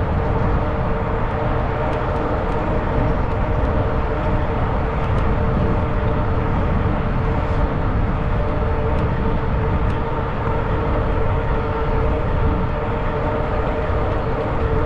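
Wind rushing over the microphone while riding a fat-tire electric bike, a steady low rumble with an even hum under it.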